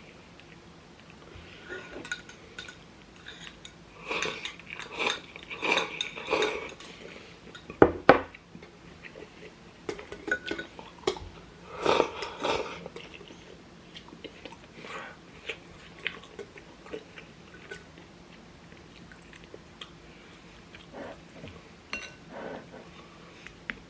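Eating at the table: chewing, with utensils clinking against bowls and dishes now and then, and two sharp knocks about eight seconds in.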